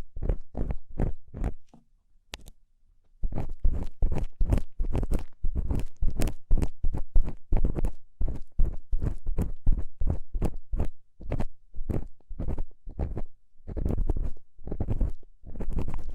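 Ear-cleaning tool scraping and rubbing in quick, scratchy strokes close to the microphone, about two or three a second. The strokes carry a heavy low rumble and pause briefly about two seconds in.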